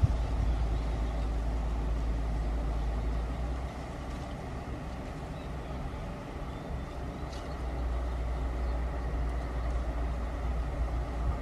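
Empty iron-ore freight train running: a steady low rumble from the diesel locomotives and rolling wagons. The rumble eases a little about four seconds in and builds again near eight seconds.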